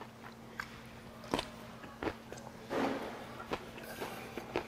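Close-up chewing of freshly made napa cabbage kimchi: a string of separate crunches and wet mouth clicks, the loudest a longer crunching burst about three seconds in.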